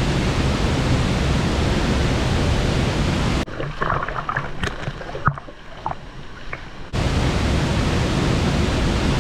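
Waterfall, a loud steady rush of falling water. It cuts off abruptly about three and a half seconds in to a quieter stretch with scattered clicks and knocks, and the rush comes back just as abruptly near seven seconds.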